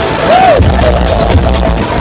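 Loud music with heavy bass played through a large outdoor battle sound system, with a short rising-and-falling tone about a third of a second in.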